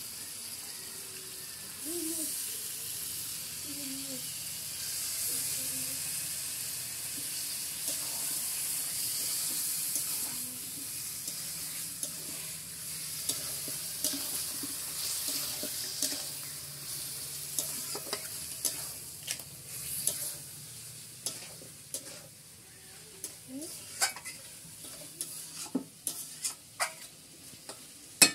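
Chicken pieces sizzling as they fry in masala in a metal karahi, stirred with a metal spatula. The sizzle is loudest in the first half; in the second half sharp clicks of the spatula knocking and scraping on the pan come more and more often.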